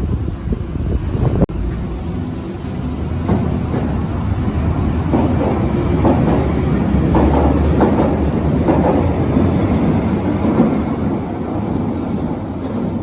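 Berlin large-profile U-Bahn train running on the track: a steady rumble of wheels on rails, with irregular clattering from about five to ten seconds in.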